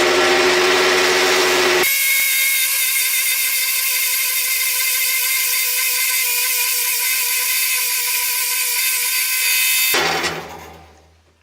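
Bandsaw cutting through a block of aluminium: a loud, steady high hiss with a thin whine over it, and the motor's low hum drops out abruptly about two seconds in. The hum comes back near the end as the saw runs down and fades away.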